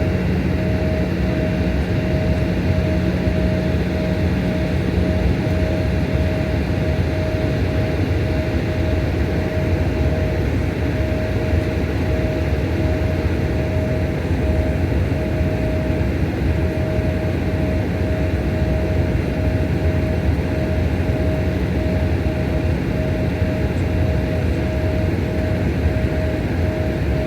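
Jet airliner's engines at climb power, heard inside the passenger cabin: a steady roar with a constant whine a little above 500 Hz.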